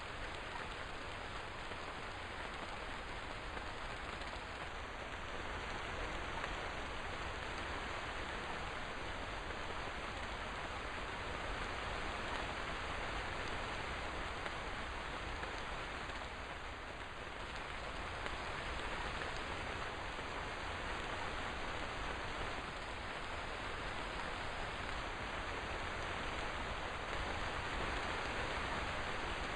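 Steady rainfall, an even hiss of drops falling continuously.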